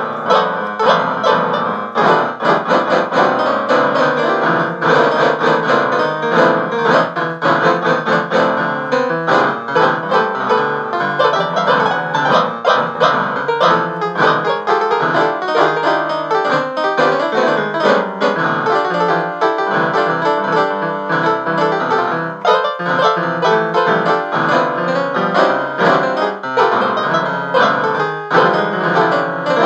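Piano music playing without pause, a steady stream of notes.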